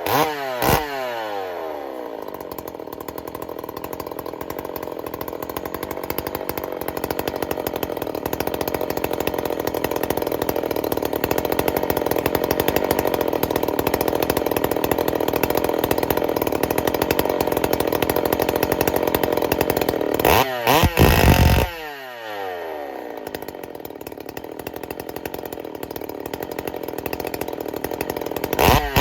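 Freshly rebuilt Jonsered 2186 chainsaw's two-stroke engine running on its first start-up. It comes down from a rev into a steady idle, gets one brief throttle blip about twenty seconds in that falls straight back, and revs up again at the end.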